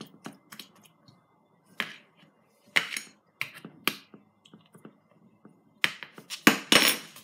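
A metal fork clicking and scraping against a plastic bowl as food is stirred, in irregular sharp taps, with a cluster of louder knocks near the end.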